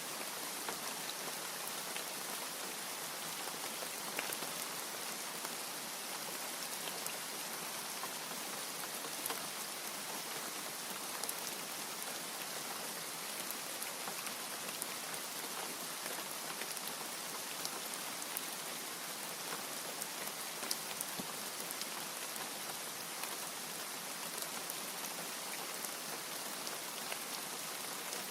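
Steady heavy rain, with many separate drops ticking sharply on a hard surface.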